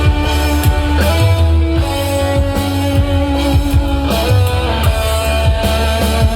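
Instrumental passage of rock band music: held guitar notes over bass and a steady drum beat, with no singing.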